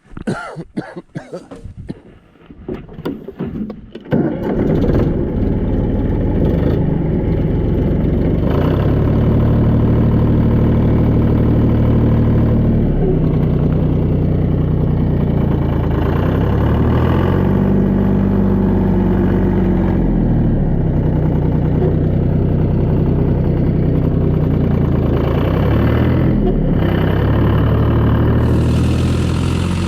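Tractor engine being cranked and catching about four seconds in, then running loud and steady, with the engine speed rising and falling a few times.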